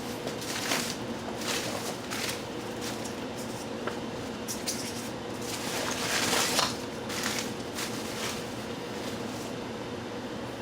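Irregular rustling and handling of cloth and paper packing while a box is unpacked, with the loudest rustle about six seconds in, over a steady low background hum.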